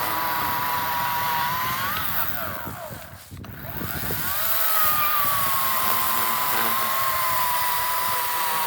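EGO 56-volt battery chainsaw running with a steady electric whine. About three seconds in it slows almost to a stop, then winds back up to full speed.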